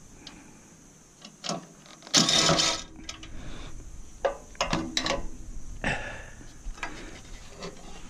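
Metal parts of a stainless steamer being handled and worked loose: scattered clinks and knocks, with one short, loud scraping noise about two seconds in.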